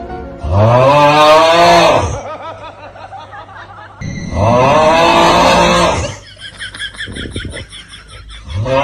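An animal's long, loud, low-pitched calls, cow-like moos, three times: each starts low, rises and is held for about one and a half seconds.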